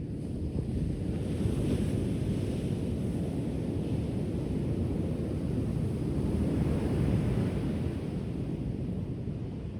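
Ocean surf: waves washing onto the shore as a low, steady rushing that swells about a second in and again around seven seconds.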